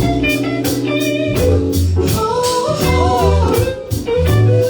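A band playing blues-rock: an electric guitar playing bending lead notes over bass guitar and a steady drum-kit beat.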